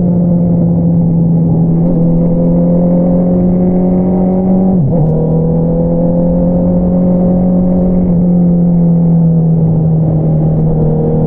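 2022 Honda CBR650R's inline-four engine through an Akrapovič single-outlet exhaust, running at steady revs. About five seconds in, the pitch dips sharply and then settles a little lower, as a quick upshift.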